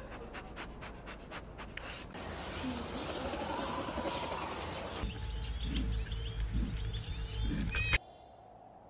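Outdoor ambience with small birds chirping in the background, the sound changing abruptly twice. There are faint clicks at first, and a low rumble under the later chirps.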